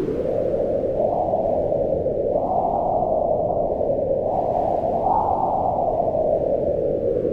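Continuous low wind noise, swelling and easing as gusts come and go, each gust rising and then falling in pitch.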